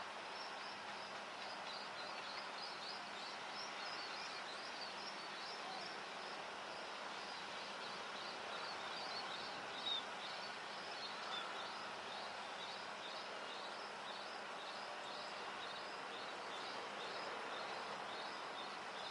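Outdoor background noise, a steady hiss carrying rapid high-pitched chirps several times a second, with one brief click about ten seconds in.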